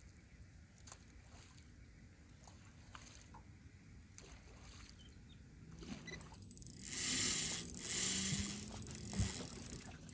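Water lapping quietly against a small boat, with a few faint ticks. After about six seconds come several louder hissing swishes and a sharp click near the end.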